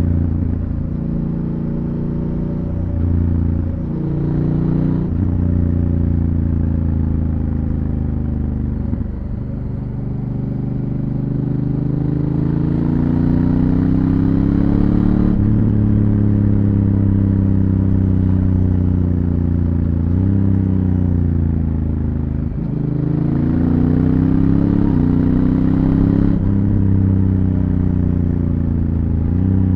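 Honda Africa Twin CRF1000L's parallel-twin engine on a stock exhaust, heard from on board as the bike accelerates through the gears. The revs climb and drop abruptly at each upshift of the DCT gearbox, several times over.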